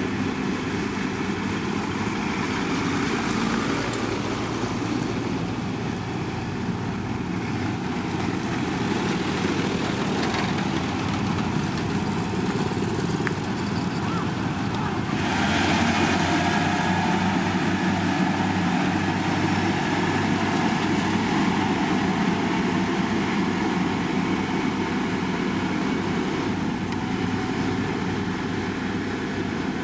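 Heavy road-construction machinery running steadily, an engine drone with machine noise that gets a little louder and brighter about halfway through.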